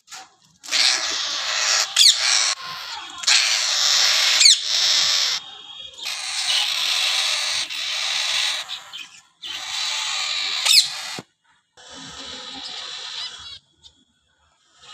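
A flock of caged birds chirping and chattering all at once, with a few sharp calls sweeping in pitch above the din. The sound comes in several short stretches that cut in and out abruptly.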